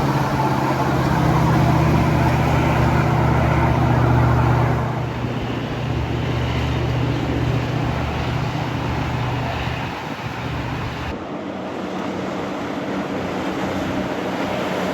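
A dive boat's engines running as it passes through the inlet: a low, steady engine drone, loudest for the first five seconds, then fading as the boat moves away.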